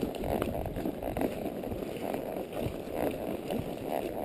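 A palomino Quarter Horse walking along a dirt trail: a steady run of irregular hoofbeats and rustling, with no voice.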